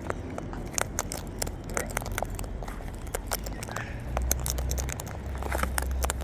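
Birds pecking and cracking seed: many irregular sharp clicks and crunches, with a low rumble from about four seconds in.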